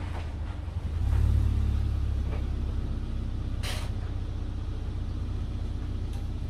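A car engine running at low revs as a car pulls up. The rumble grows louder about a second in, then holds steady, with one short hiss a little past the middle.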